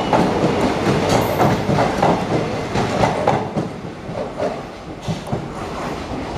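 Indian Railways passenger coaches rolling past, their wheels clattering over the rail joints in an irregular clickety-clack. The sound eases off a little after about three and a half seconds as the end of the train draws away.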